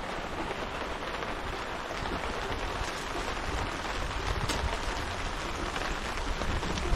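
Steady rain falling on the tarp shelter overhead, an even hiss of drops.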